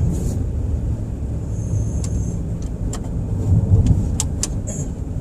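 Motor vehicle engine running with a steady low rumble, with a few light clicks over it.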